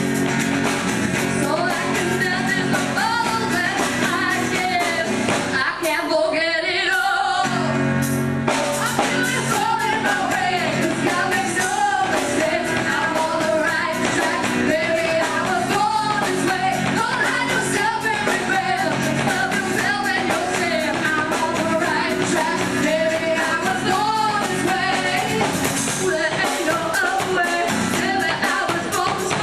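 Two women singing an original pop-rock song live, backed by a drum kit and band. The low backing drops out briefly about six seconds in, then comes back in.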